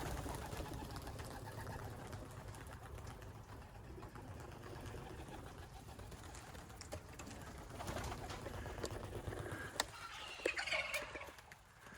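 Young racing pigeons cooing in and around their loft, with a few sharp clicks and knocks near the end.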